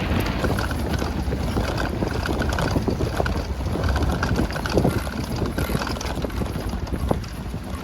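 Wind buffeting the microphone of a camera on a moving bicycle, a loud, continuous rushing rumble with scattered small knocks and rattles.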